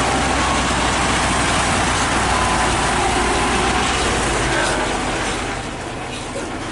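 Loaded heavy diesel tronton truck running loud and close, with a low engine rumble and mechanical rattle; about four and a half seconds in, the rumble drops away and the noise fades as the truck moves off.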